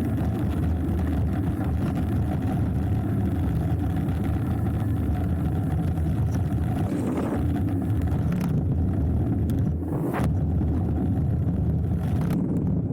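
Wind buffeting the action camera's microphone over the rumble of knobby tyres rolling down a dirt trail on a hardtail mountain bike, with a couple of brief knocks from the bike over bumps.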